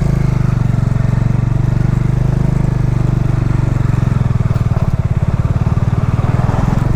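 Motorcycle engine running steadily, its rapid, even firing pulses unbroken throughout.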